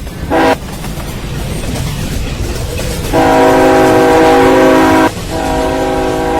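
Ferromex freight locomotive's air horn: one short blast, then two long blasts of about two seconds each, over the steady low rumble of the passing train.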